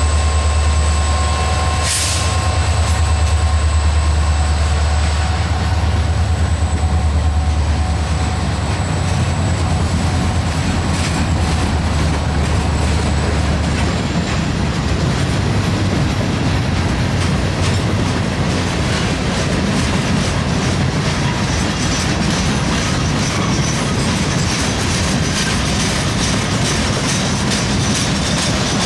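CSX EMD SD40-3 and SD40-2 diesel locomotives, with EMD 16-645 two-stroke V16 engines, pass slowly with a heavy low rumble. There is a brief sharp noise about two seconds in. The rumble fades out about halfway through as the freight cars follow, their wheels clicking over the rail joints and squealing faintly near the end.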